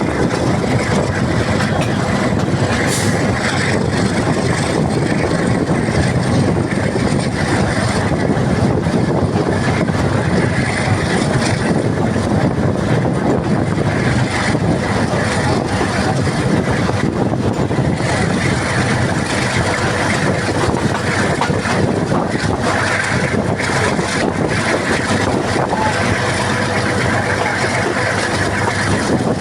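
Passenger train running past at speed: a loud, steady noise of wheels on track that holds unbroken throughout.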